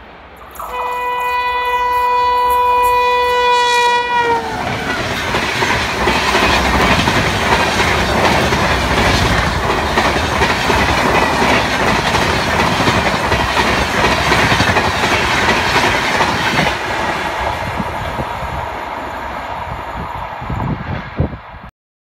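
WAP7 electric locomotive sounding one long horn blast of about three seconds, its pitch falling as it ends while the locomotive passes. Then the steady rush and rattle of the Duronto Express coaches going by at full line speed, until the sound cuts off near the end.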